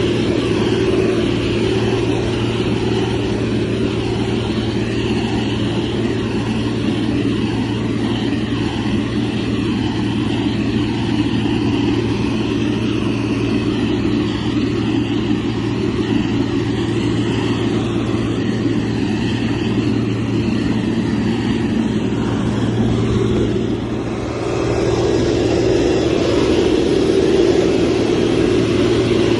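Motor grader's diesel engine running steadily under load with a constant low drone. It eases off for a moment near the end, then picks up again.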